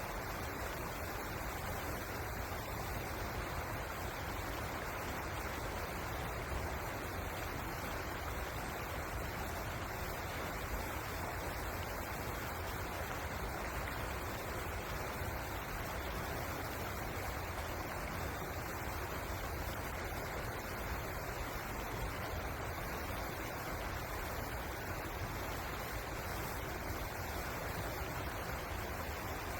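Steady rush of flowing river water, an even noise with no change throughout.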